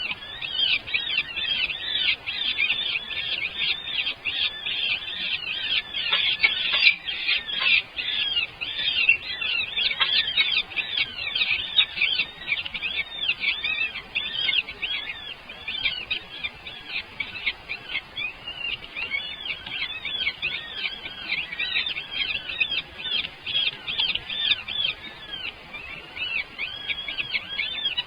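Many small birds chirping at once: a dense, unbroken chorus of short, high chirps.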